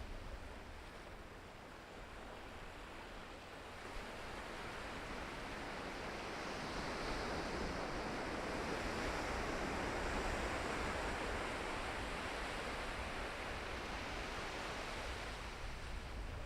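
Ocean waves breaking and washing in: the surf swells up about four seconds in, is loudest in the middle, and slowly eases off near the end.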